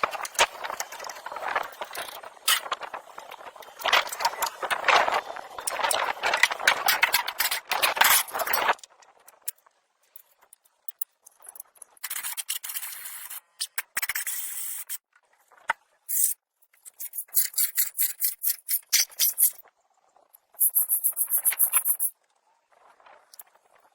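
Hand work on old vehicle parts during restoration, in a series of short cut clips. First several seconds of continuous scraping and knocking, then brief bursts of rapid scraping strokes separated by sudden silences.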